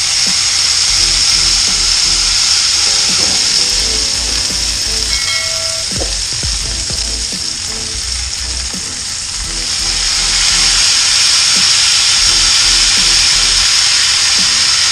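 Food frying on a hot stainless steel griddle over charcoal: a loud, steady sizzle of fat in rendered bacon grease, which grows louder about ten seconds in. A background music track with a bass beat runs underneath.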